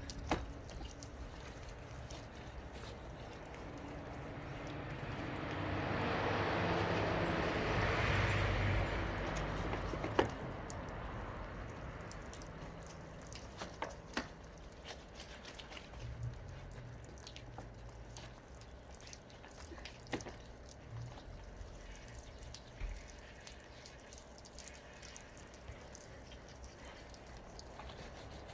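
Wet gutter cleaning: water dripping and trickling, with scattered light knocks and taps. About a third of the way in, a rushing noise swells for a few seconds and then fades.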